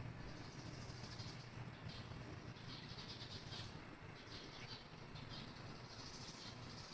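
Small birds chirping faintly in quick repeated bursts, over a steady low hum.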